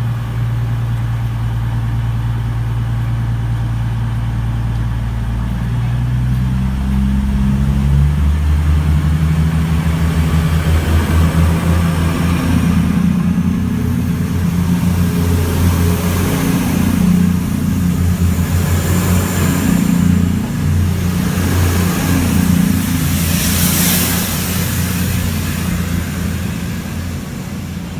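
Class 221 Super Voyager diesel multiple unit pulling away under power. Its underfloor diesel engines step up in pitch about seven seconds in, then keep up a loud pulsing note, with a rushing noise building in the second half as the train gathers speed.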